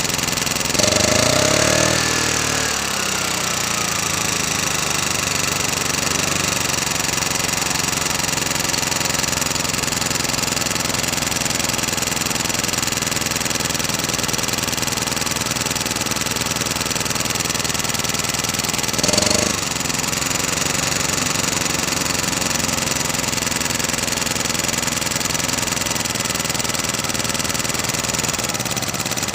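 Honda portable generator engine running steadily. It briefly speeds up and settles back about a second in, and surges again for a moment near the end.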